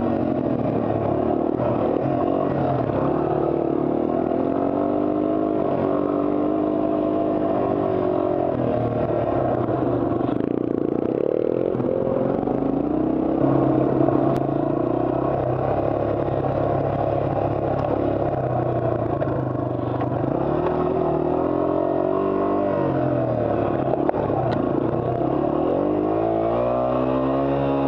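Yamaha TW200 single-cylinder four-stroke engine running under way on the trail, heard from on board, its pitch rising and falling over and over as the throttle opens and closes. A couple of sharp knocks come through about halfway and again near the end.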